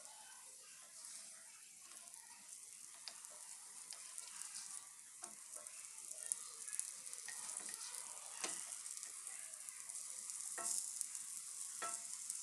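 Egg-stuffed pastries shallow-frying in oil on a tawa: a faint, steady sizzle that grows louder, with a few sharp knocks of a wooden spatula as they are turned.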